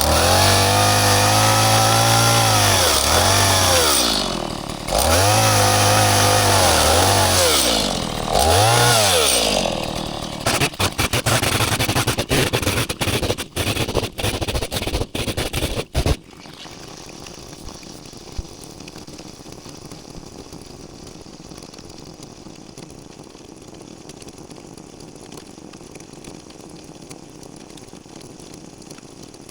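Chainsaw cutting wood, its engine rising and falling in pitch through three full-throttle runs. It then runs rough and stuttering for several seconds and stops abruptly. A quiet steady background follows.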